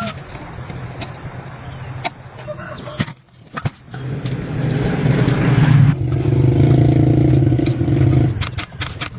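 A motor runs up and hums steadily for a few seconds, then cuts off abruptly, after a few clicks and knocks.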